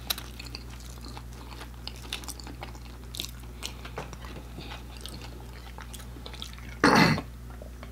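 Close-miked chewing of fried chicken nuggets and fries: many small wet clicks and crunches over a low steady hum. About seven seconds in comes one short, much louder noise.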